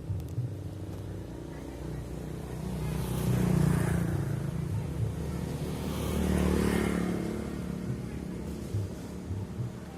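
Motor vehicles passing on a road, two swells of engine and tyre noise rising and fading, the first about three and a half seconds in and the second about six and a half seconds in, over a steady low traffic rumble.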